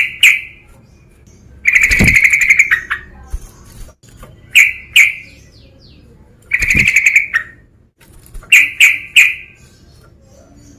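Male yellow-vented bulbul (trucukan) calling loudly: short sharp notes in twos and threes, with two longer, rapid chattering phrases, one about two seconds in and one near seven seconds.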